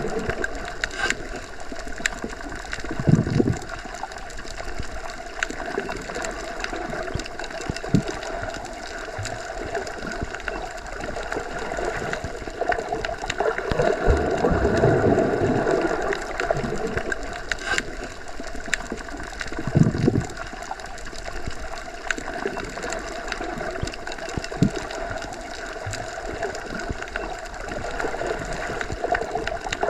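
Underwater ambience as heard when submerged: a steady muffled hum with low water rumbles that swell and fade every few seconds, and scattered faint clicks.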